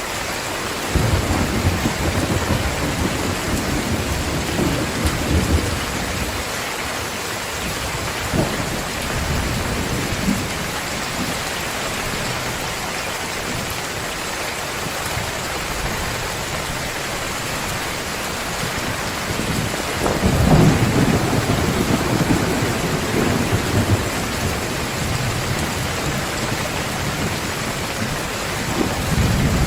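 Heavy steady rain with rolling thunder: low rumbles swell about a second in, again around twenty seconds in, and near the end.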